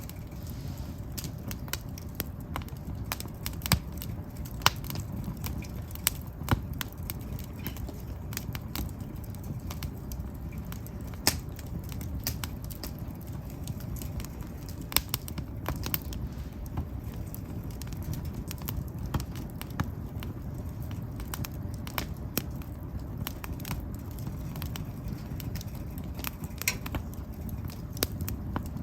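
Wood fire burning: a steady low rush of flame with frequent sharp crackles and pops from the burning firewood, and a handful of louder snaps scattered through.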